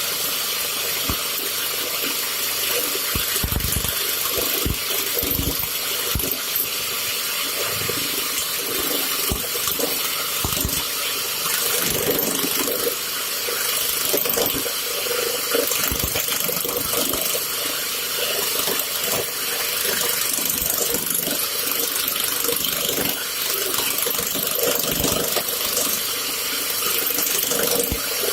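Woodworking lathe running while a steel ball is cut on it: a steady high scraping noise of the cutter on the steel, with scattered short knocks.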